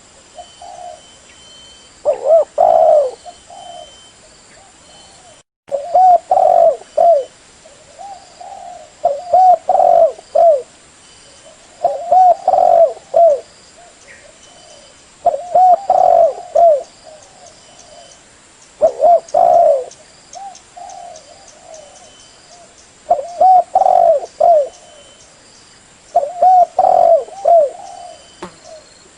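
Spotted dove (terkukur) cooing: a phrase of several low, looping coos, repeated about every three to four seconds.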